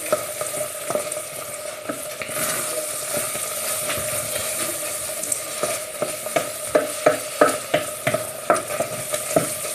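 Risotto sizzling in a pan while a spoon stirs it, scraping the bottom in repeated short strokes that come more often in the second half. The rice has been cooked down until nearly dry.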